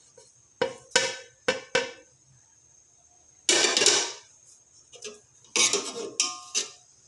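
A metal spoon clinking and tapping against a cooking pot as spices are added to the pot: a series of sharp clinks, the later ones ringing briefly, with a short rushing scrape about three and a half seconds in.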